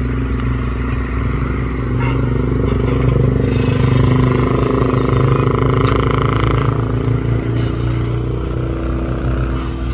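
Hitachi mini excavator's diesel engine running steadily under work, rising in loudness and strain from about two seconds in and easing back after about seven seconds, with some clatter from the machine.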